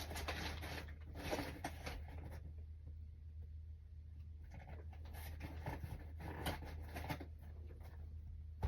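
A cardboard box and its packaging being handled, with short, irregular bouts of scraping and rustling over a steady low hum.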